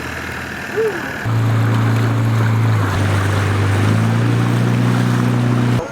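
Boat engine running steadily, a low hum over wind and water noise. The hum comes in sharply about a second in and stops abruptly just before the end.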